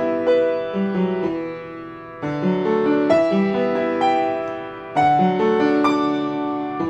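Background piano music: slow chords and sustained notes, with a new phrase struck about two seconds in and again about five seconds in.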